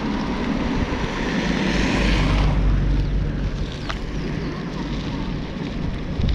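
A motor vehicle's engine passing close by, loudest about two seconds in, over wind rushing on the microphone.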